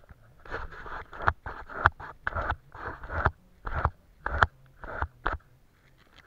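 Paintbrush strokes scratching across paper: a quick, irregular series of short strokes that stops about five and a half seconds in.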